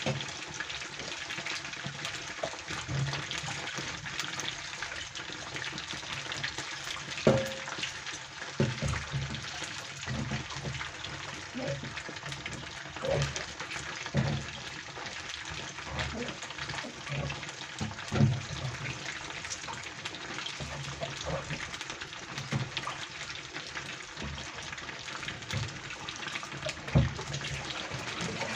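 Batter-coated straw mushrooms deep-frying in hot oil in a wok: a steady crackling sizzle, with occasional sharp knocks of chopsticks against the pan as the pieces are turned.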